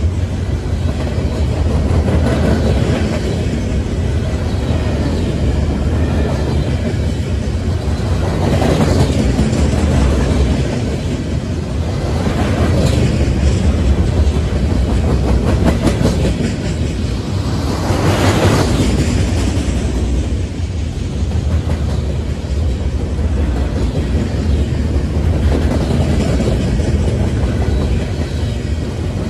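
Freight train of flatcars loaded with steel pipe rolling past close by: a steady rumble and clatter of wheels on rail, swelling louder about 9, 13 and 18 seconds in.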